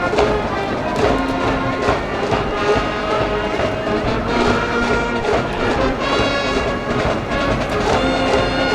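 School cheering brass band playing a stadium cheer song, with trumpets and trombones carrying the melody over a regular drum beat.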